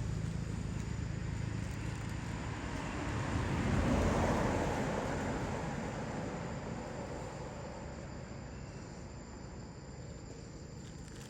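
A vehicle passing by, its noise swelling about four seconds in and then slowly fading, over a steady high insect drone.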